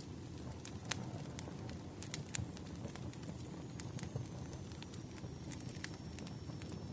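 Crackling wood fire: irregular sharp pops and snaps of burning firewood over a steady low rumble of flames.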